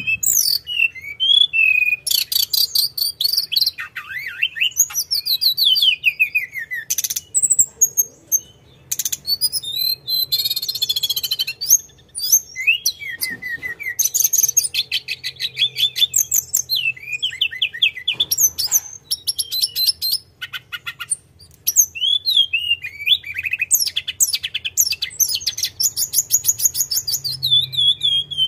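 Hill blue flycatcher (tledekan gunung) singing in full voice: a long run of rapid rolling trills and quick whistled phrases, with only brief pauses.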